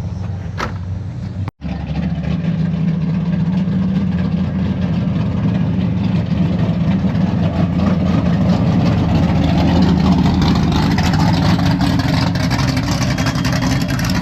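Car engine running with a deep, steady rumble. It cuts off for an instant about a second and a half in, then comes back a little louder.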